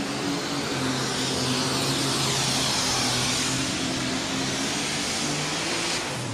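Alcohol-burning super stock pulling tractor's turbocharged engine at full power under load during a pull, loud and steady, falling away at the very end as the run finishes.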